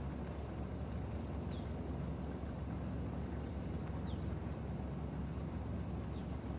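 Steady low rumble of harbour ambience, with three faint, short, high chirps from a bird spread through it.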